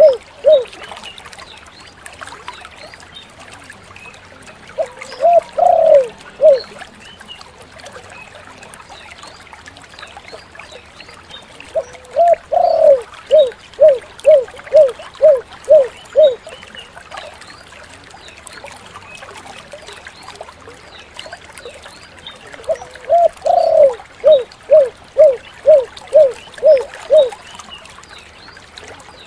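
Spotted dove (tekukur) cooing in three bouts, about five, twelve and twenty-three seconds in. Each bout opens with a longer drawn note and runs into a quick string of short, evenly spaced coos.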